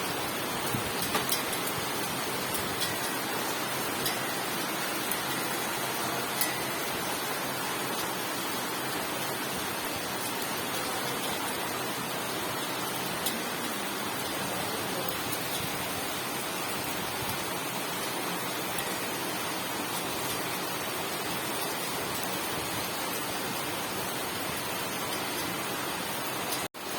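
Heavy rain falling, a steady even hiss with a few faint sharp taps of drops. The sound cuts out for a moment near the end.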